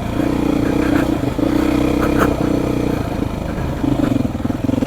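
Beta 480 RR single-cylinder four-stroke dirt bike engine running under a rider on a trail. It holds a steady note with brief dips, eases off between about three and four seconds in, then picks up again.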